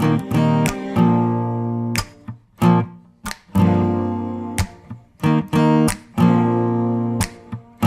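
Background music: a strummed acoustic guitar playing ringing chords in a steady rhythm, broken by short, sharply cut-off strokes.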